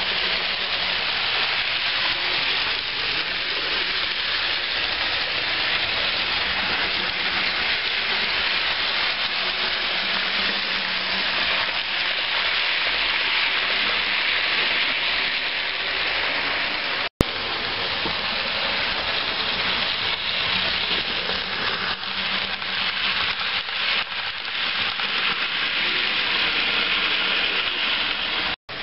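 HO-scale model trains rolling along the track, a steady hissing rumble of small metal wheels on rails, cut off for an instant twice.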